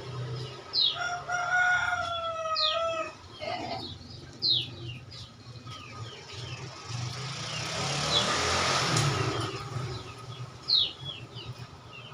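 Sooty-headed bulbul giving sharp, quickly falling chip calls again and again, in a noisy, agitated run. About a second in, a rooster crows in the background. A rushing noise swells and fades in the middle.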